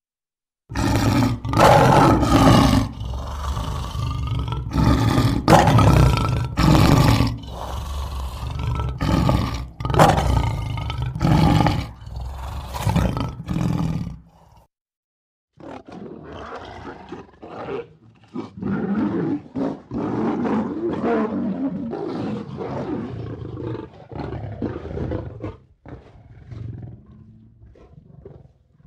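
Lion roaring: a run of loud calls about one a second for the first half, then after a short break a quieter, more continuous stretch of calling that fades out near the end.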